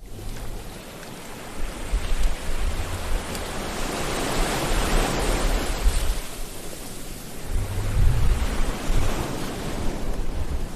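Sea waves washing onto a shore: a wide hiss of surf that swells to its loudest about halfway through and eases, with another low, rumbling wave coming in near the end.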